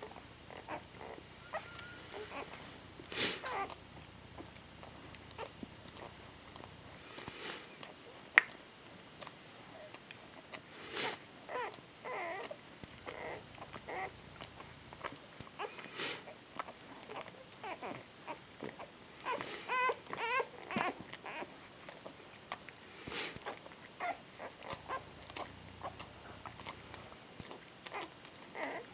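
Litter of eight-day-old puppies squeaking and whimpering in short, scattered high cries, with one sharp click about eight seconds in.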